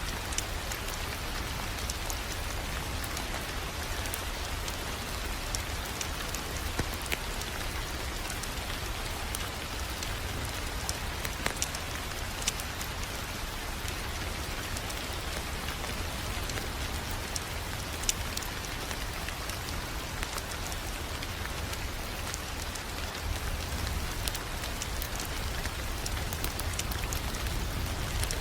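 Wood fire crackling: a steady hiss and low rumble with scattered sharp pops, one louder pop about eighteen seconds in.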